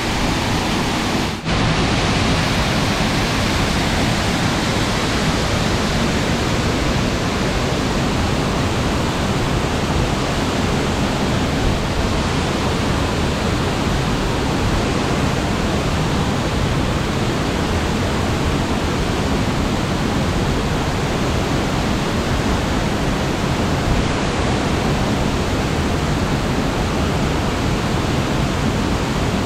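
Waterfall pouring steadily, a loud, even rush of falling water, with a momentary break about a second and a half in.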